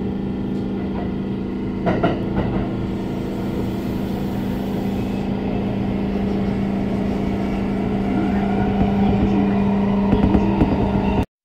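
A Hanshin Railway electric train running, heard from inside the carriage: a steady motor hum over the rumble of the wheels on the track, with a few sharp clanks about two seconds in. It grows slowly louder and cuts off abruptly near the end.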